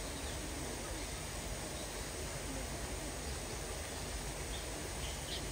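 Steady, even hiss of falling rain, with a few faint short high chirps near the end.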